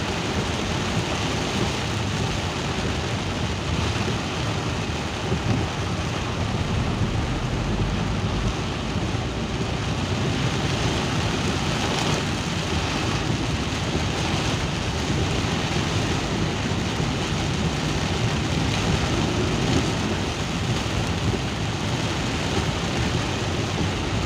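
Steady rain with a constant low rumble underneath.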